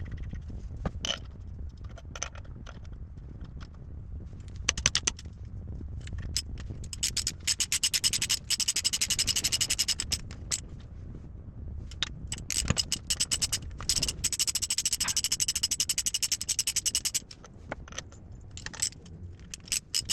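Rapid back-and-forth scraping strokes from a hand tool working a part: scattered single strokes, then two dense fast runs of about three seconds each, the first starting about seven seconds in and the second about fourteen seconds in, with more scattered strokes near the end.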